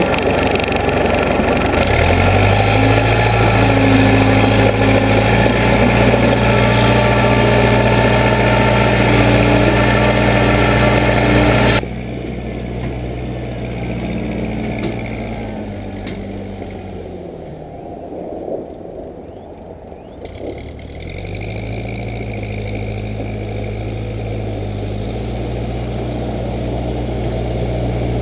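Case 580B backhoe engine running at a steady speed. About twelve seconds in the level drops suddenly; after that the engine's pitch sinks low for a few seconds in the middle, then climbs back up and holds steady.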